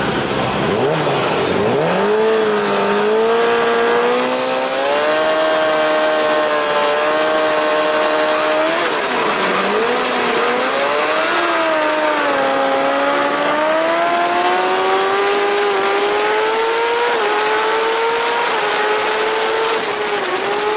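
JSB1000 superbike engine heard from its own onboard camera at a race start: revs rise and are held high on the grid, drop sharply as the bike launches, then climb steadily under full throttle with brief dips in pitch at each upshift.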